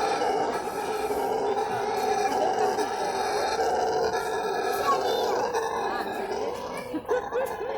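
Brown howler monkey howling: one long, continuous rasping roar that weakens and breaks up near the end.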